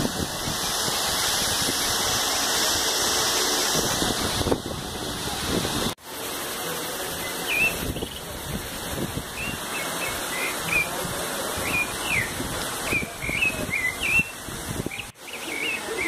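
Small birds chirping in quick, short high notes, many times from about seven seconds in, over a steady rushing noise.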